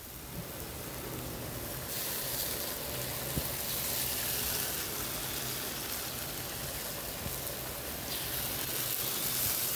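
Minced pork sizzling and frying in a hot wok as it is stir-fried, the sizzle growing louder about two seconds in as seasoning sauce goes into the pan.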